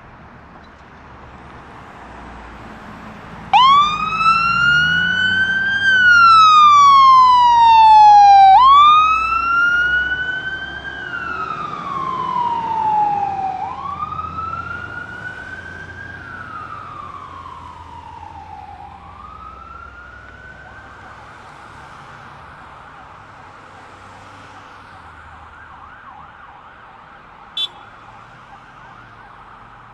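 Fire engine's siren starting up on a code 3 response. It sounds in long wails, each rising quickly and falling slowly, then switches to a rapid yelp and fades as the truck moves away. A short sharp blip sounds near the end.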